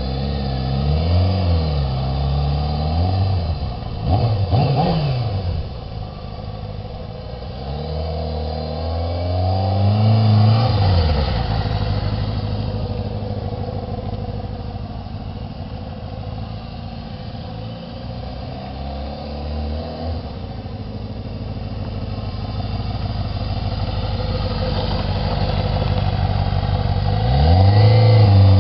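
Kawasaki Ninja ZX-6E motorcycle's 600 cc inline-four engine being ridden, its note rising and falling again and again as the throttle opens and closes, loudest near the end.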